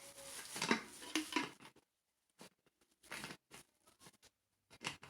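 Handling noises from unpacking a straw tumbler: plastic rustling with light knocks and clicks of the tumbler and lid, in irregular bursts with a short pause about two seconds in.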